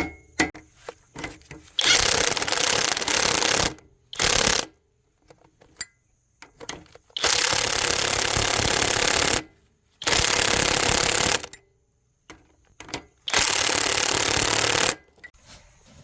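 A power tool run in five short bursts, each switched on and off sharply and lasting from about half a second to two seconds, with small clicks and knocks between them.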